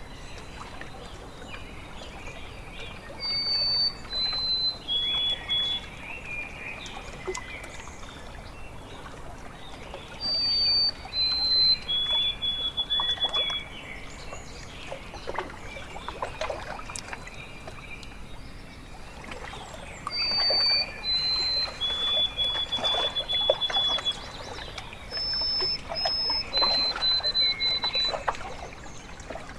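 A songbird singing a phrase of a few clear whistled notes that step down in pitch, repeated several times, over water trickling and lapping.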